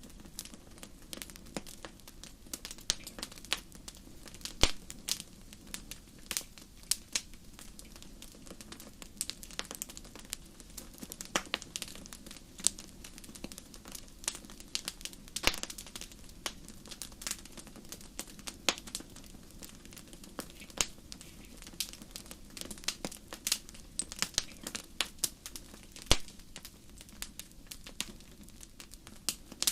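Wood fire in a fireplace crackling: many sharp, irregular pops and snaps, a few of them much louder, over a low steady rush of the flames.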